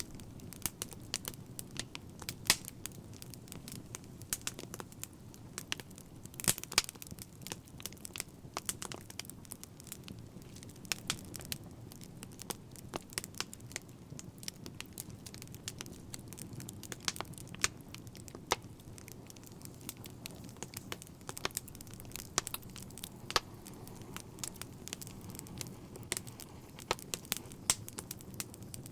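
Fire crackling: irregular sharp pops and snaps, some louder than others, over a steady low rumble.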